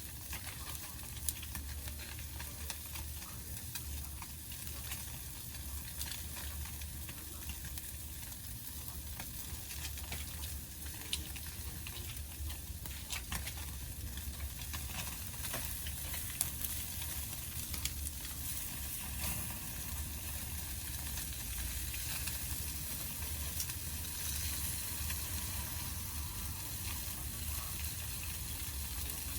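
Pacific saury sizzling as it grills over a wood fire, a steady hiss with scattered sharp pops and crackles.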